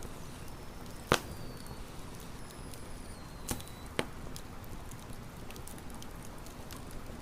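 Wood campfire burning with a steady crackle and scattered small snaps, and three sharp pops, the loudest about a second in and two more close together near the middle. Faint high whistling tones slide slightly downward through the first half.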